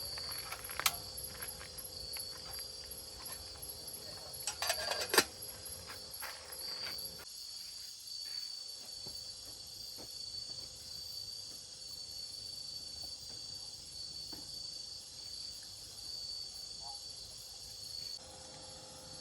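Steady high-pitched insect chorus from the forest, running unbroken. Several sharp clicks and knocks come in the first five seconds, the loudest a quick cluster about five seconds in.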